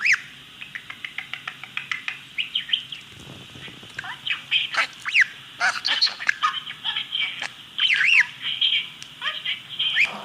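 Birds chirping and squawking in a busy run of short calls, some rising and falling in pitch, with a quick run of ticking calls near the start.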